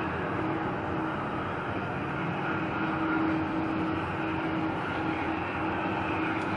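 Jet engines of a Boeing 777 airliner on landing, a steady rushing noise with a low hum that fades in and out.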